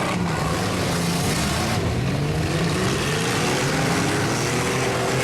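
Demolition derby car engines running steadily, with one engine's pitch slowly rising as it revs up.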